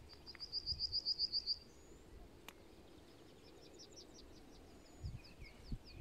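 Songbird singing: a fast, even run of about ten high notes in the first second and a half, then a fainter, longer series of high notes later on.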